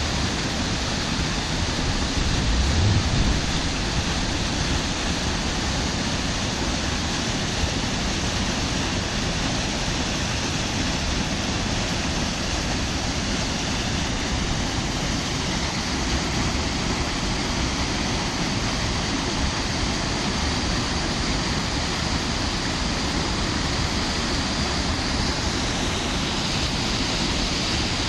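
Water rushing steadily, as in a fast river or cascade, with a brief low rumble about three seconds in.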